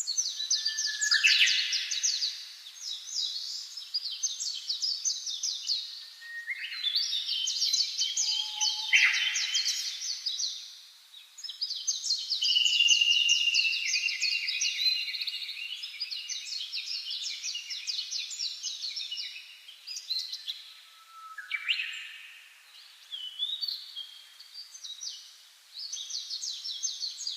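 Green bee-eaters calling: a dense, continuous run of rapid, high chirps and trills from several birds overlapping, with a couple of short lulls.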